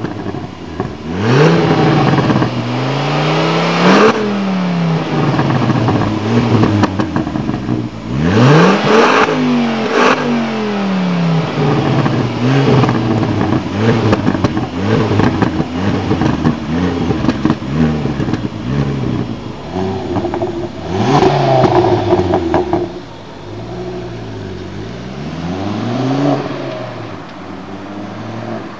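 Ford Focus ST engine breathing through a custom Magnaflow stainless steel exhaust, revved up and let fall back several times, its pitch climbing and dropping with each rev. It settles quieter after the last big rev, near the end.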